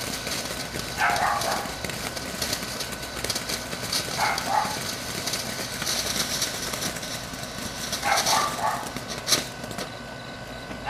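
A ground firework fizzing and crackling, with sharp crackles around the middle and near the end. Short calls cut through it every three or four seconds, about four in all.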